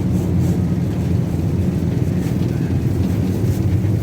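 Steady low engine rumble of a tourist road train running.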